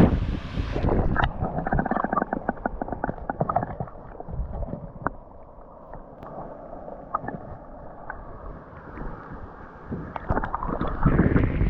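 Water gurgling and splashing close to the microphone, muffled, with many small crackles and ticks.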